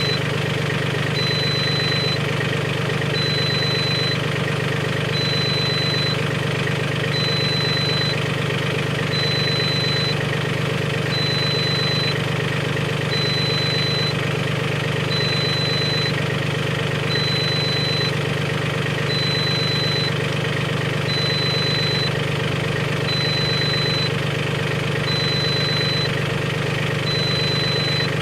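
Mahindra 1626 compact tractor's three-cylinder diesel engine idling steadily.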